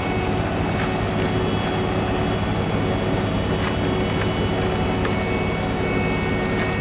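Heavy diesel road-paving machinery running steadily, a constant engine drone with a few faint clicks over it.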